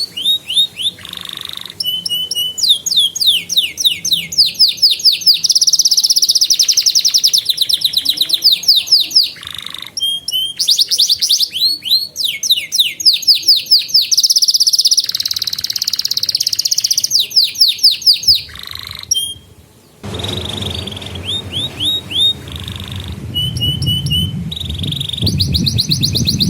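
Domestic canary singing a fast song of rolling trills, each phrase a run of quick, evenly repeated downward-sweeping notes, with short pauses between phrases. About twenty seconds in, a low rumble comes in under the song.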